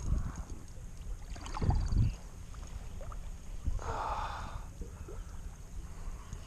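River water running, with wind rumbling in low gusts on the microphone and a short burst of hiss about four seconds in.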